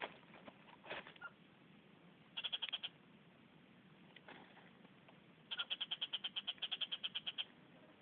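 A bird calling in two runs of quick, even, high-pitched notes, about eight a second. A short run of about six notes comes two and a half seconds in, and a longer run of about sixteen follows from halfway to near the end.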